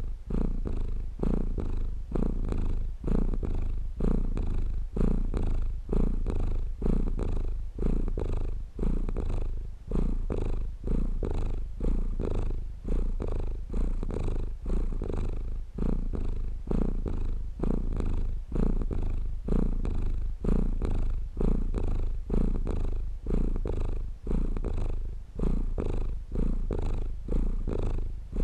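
Domestic cat purring steadily. The low purr swells and dips in an even rhythm about once a second, following the cat's breaths in and out.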